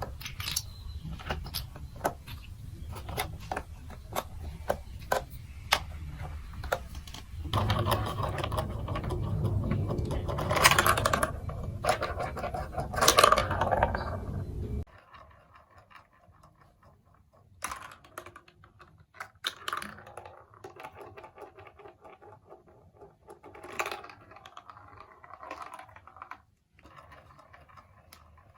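Plastic marble-run building blocks and marbles clicking and rattling: a run of small sharp clicks, then a denser, louder rattle, which stops suddenly about halfway through, leaving quieter scattered clicks.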